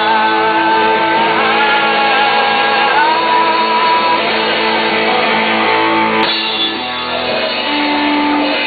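Rock band playing an instrumental passage, guitars prominent, with held notes and a lead line that slides up in pitch twice. The sound of the band changes about six seconds in.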